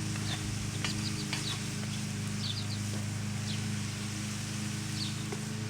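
Small birds chirping, short high calls often in twos and threes, over a steady low hum and a few faint sharp clicks.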